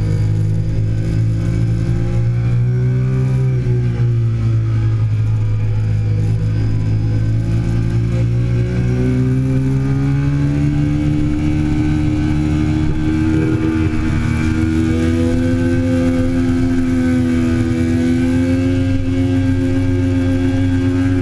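2008 Triumph Daytona 675's three-cylinder engine running hard on track. Its pitch drops about four seconds in, then climbs again from about nine seconds and holds higher.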